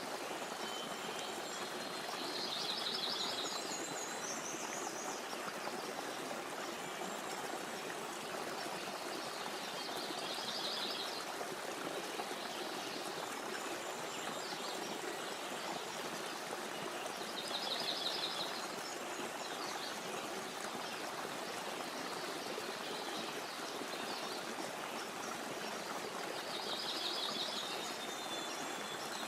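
A stream running steadily, with a songbird singing a short, rapid phrase four times, roughly every seven or eight seconds.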